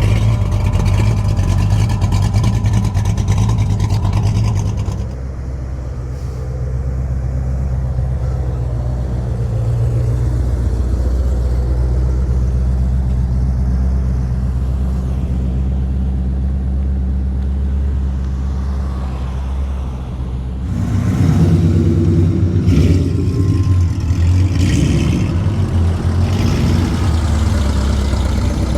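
Car engines running low and steady as show cars roll slowly past, one after another. A louder engine comes in about three-quarters of the way through.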